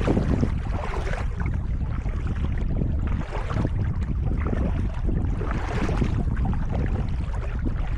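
Kayak paddle strokes splashing in calm water, a wash of splash about every two and a half seconds, over a steady rumble of wind on the microphone.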